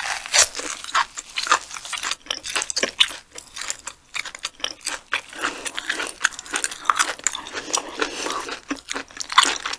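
Close-miked ASMR chewing and crunching of a crisp seaweed-wrapped bite: a dense, irregular run of sharp crackles and bites.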